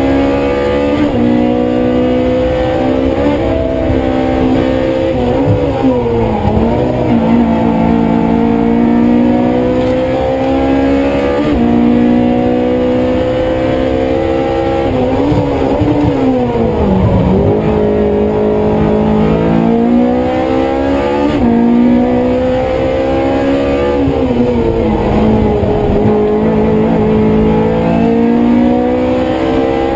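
Honda Civic EK9 race car's four-cylinder engine at full throttle, heard from inside the cabin: revs climb steadily and step down at each upshift. Three times the revs fall away under braking with blipped downshifts for corners, then build again.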